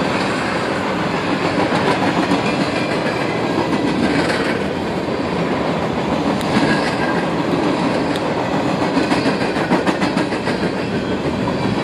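Freight cars of a CSX freight train, autoracks then boxcars, rolling steadily past. The wheels clatter and click over the rail joints in a continuous rumble.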